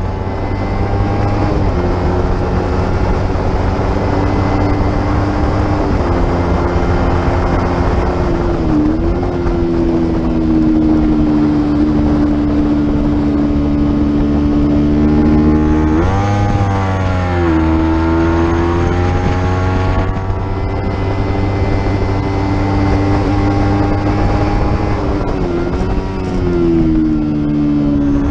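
Racing motorcycle engine held at high revs on track, its pitch steady. The revs dip briefly about nine seconds in and again near the end, and swing sharply up and down about sixteen seconds in.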